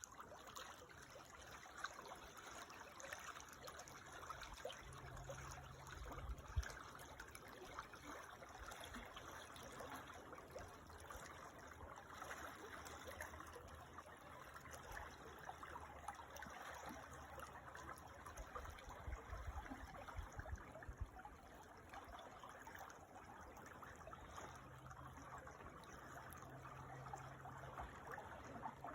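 Creek water trickling and running steadily, faint, with a few brief low rumbles mixed in.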